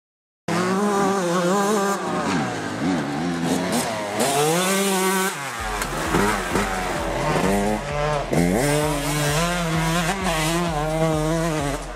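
Yamaha YZ125 two-stroke dirt bike engine revving up and down as it is ridden through the turns, pitch rising and falling over and over. The sound starts abruptly about half a second in.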